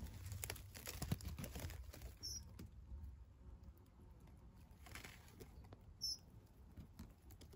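Hedge leaves and twigs rustling and crackling as they are handled, fading after about two seconds, then a bird giving a short, high call note twice, a few seconds apart. The calls are taken for the parent dunnock returning to its nest of chicks.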